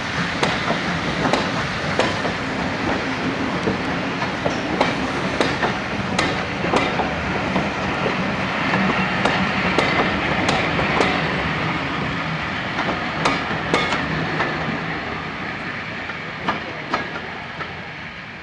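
Coaches of a steam-hauled train rolling past, their wheels clicking irregularly over rail joints, the running noise fading away over the last few seconds as the train moves off.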